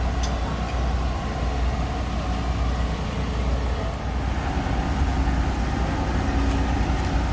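A motor running with a steady low rumble, with a few faint clicks over it.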